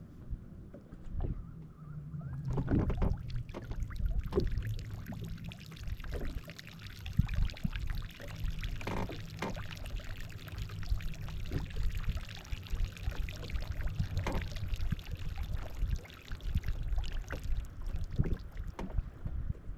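Jet ski on the water: a steady low engine rumble with irregular splashing and slapping of water.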